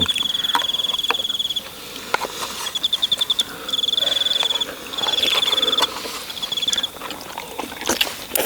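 An insect trilling in short repeated bouts, a high rapid pulsing chirp that stops and restarts every second or so, with a few scattered light taps in between.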